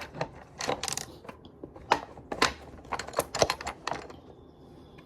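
Irregular light clicks and taps of small items being handled, about ten in all, the loudest about two seconds in.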